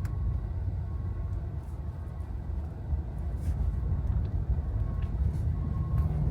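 Low, steady rumble inside a Tesla Model S cabin among traffic and snowplows, with a few faint short beeps and light clicks.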